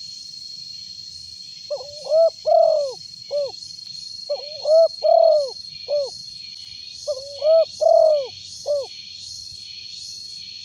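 Spotted dove cooing in a big, deep voice: three phrases of about four coos each, a few seconds apart. A steady high whine and a pulsing high hiss run underneath.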